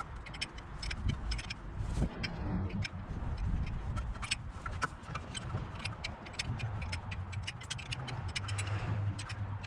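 Irregular metallic clicks and ticks from hand tools as a harmonic balancer installer is worked onto the engine's crankshaft snout, over a low steady hum.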